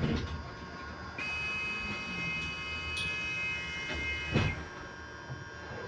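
Inside an electric bus: a steady whine made of several fixed high pitches over a low running rumble. A brighter, higher set of tones comes in about a second in and cuts off after a loud knock near the end. There is another knock at the start.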